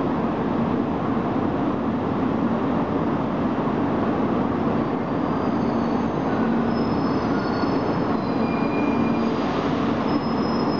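E2 series Shinkansen train pulling slowly into the station platform, a steady rumble with brief faint high squeals from the wheels and brakes.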